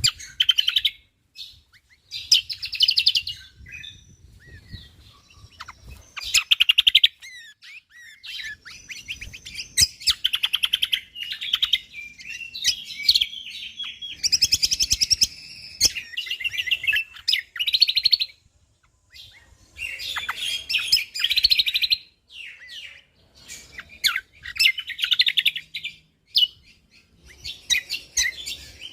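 A cucak kombok (kecial kombok) singing in bursts of rapid, tightly packed chattering notes, each burst a second or two long with short pauses between.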